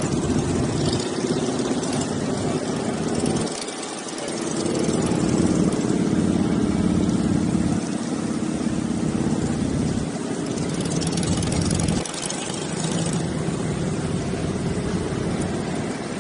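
Motorcycle engines running at low speed. The engine note grows louder from about four seconds in, eases off around eight seconds, and drops sharply at about twelve seconds.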